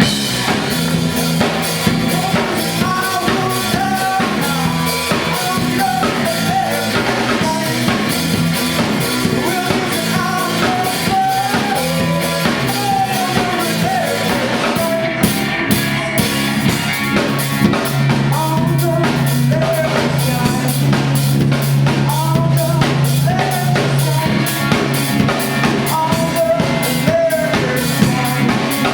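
A rock band playing a song: drum kit keeping a steady beat under bass, guitar and a singing voice.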